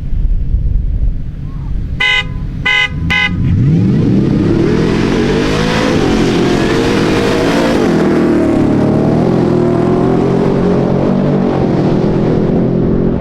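Three short horn toots, then a Ford F-150 Raptor R's supercharged V8 revs up and runs hard at high revs, with a steady rushing noise over it.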